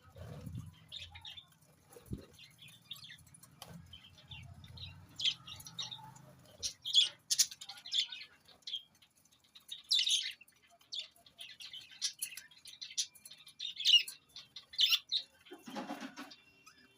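Small birds bathing, with many short, high chirps while their wings flutter and splash in the water. There is a louder flurry of splashing near the end, and a faint low hum under the first few seconds.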